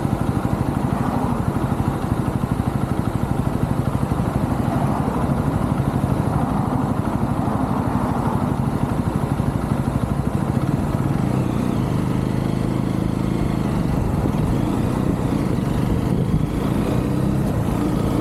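UM Renegade Commando 125's single-cylinder engine running steadily under way, with an even, rapid throb.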